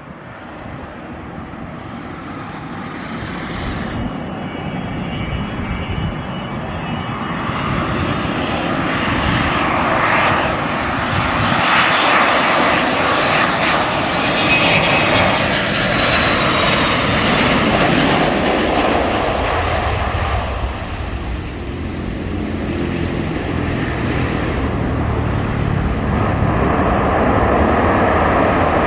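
Airliner engines on a very low landing approach, passing close. The engine sound builds steadily with a thin high whine and is loudest about eighteen seconds in. It dips briefly a few seconds later, then runs on loud and steady.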